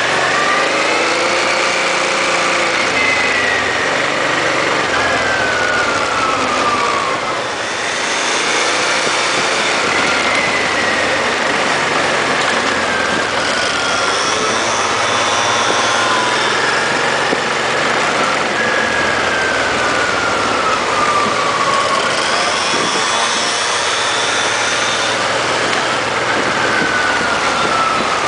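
Honda Transalp XL650's V-twin engine running under way, heard from the bike itself, its pitch repeatedly rising and falling over a few seconds at a time as the throttle opens and closes. A steady rushing noise runs underneath.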